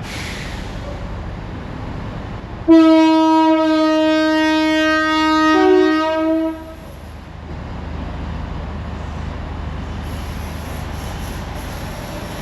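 A train sounding its horn in one long blast of about four seconds, with a second, higher note joining near the end of the blast.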